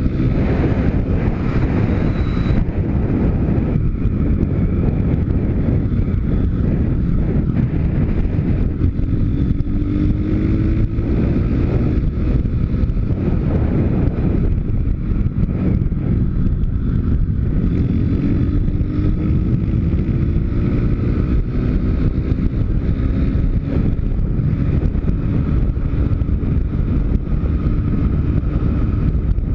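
YX 160 cc pit bike's single-cylinder four-stroke engine running under way, its pitch rising several times as it accelerates, with heavy wind noise on the microphone.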